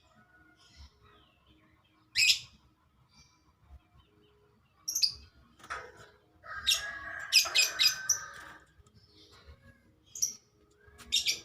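Pelatuk sampit woodpecker calling: short sharp high calls every few seconds, with a longer burst of rapid repeated notes in the middle.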